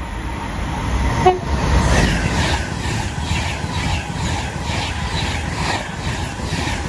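Class 390 Pendolino electric train passing through at speed: a loud rushing roar of wheels on rail that builds over the first two seconds. As the carriages' bogies go by, it carries an even run of beats, about three a second. A brief horn toot sounds about a second in.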